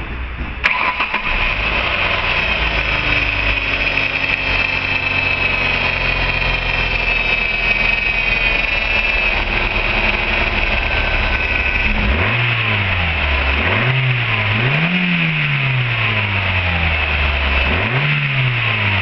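2003 Ford Focus 2.0-litre four-cylinder engine cranking and catching less than a second in, settling into a fast idle that slowly drops in pitch. Near the end it is revved three times, the pitch rising and falling with each blip.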